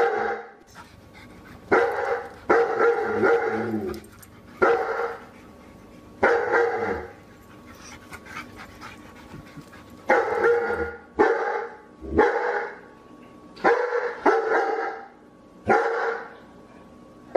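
Dog barking repeatedly, in single and double barks with short pauses between them, and one longer pause of about three seconds around the middle.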